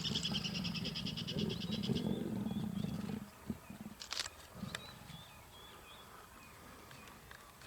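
Low, continuous growl from a big cat that stops about three seconds in, with a rapid high bird trill over its first two seconds.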